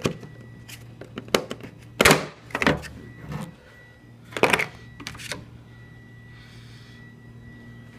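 Clicks, knocks and scraping of hands working a plastic license-plate light housing and bulb socket free. There are two louder scraping bursts, about two and four and a half seconds in, over a steady low hum.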